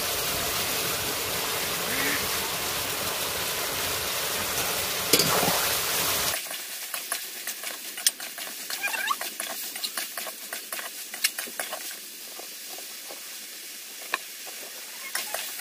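Chicken pieces frying with spices in a large wok, sizzling steadily; about six seconds in the sizzle suddenly drops away and a metal spatula scrapes and clicks against the pan as the chicken is stirred.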